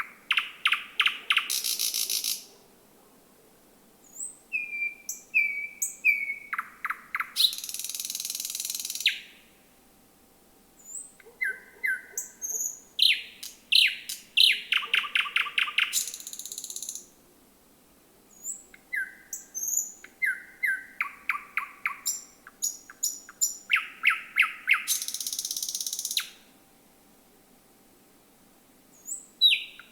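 Thrush nightingale singing at night: four phrases with short pauses between them. Each phrase has high whistled notes and fast clicking trills, and ends in a harsh, rasping rattle.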